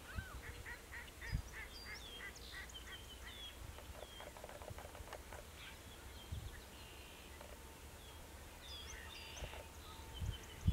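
Wild birds calling: a quick run of about nine short calls in the first three seconds, with high little chirps scattered throughout. Underneath is a low wind rumble and a few soft low thumps.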